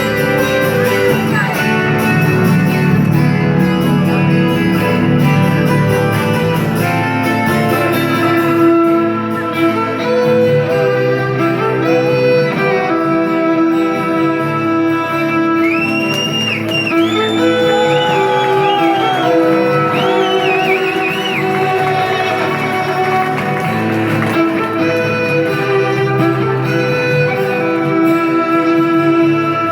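Live music from a band: guitar and violin playing a song's instrumental passage, with sliding, wavering high notes in the middle.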